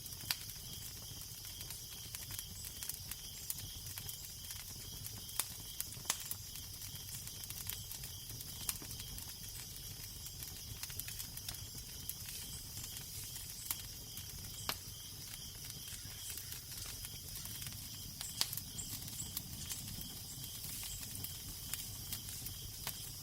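Crackling fire with irregular sharp pops and snaps over a steady hiss, and a low wind rumble underneath.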